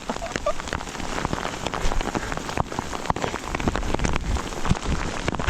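Hailstones pelting down hard, a dense patter of sharp clicking impacts over a steady hiss.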